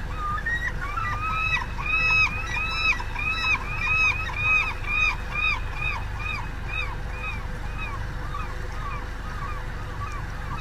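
A bird calling in a long series of repeated arched notes, about two to three a second, loudest in the first half and fading toward the end, over the low rush of a shallow creek.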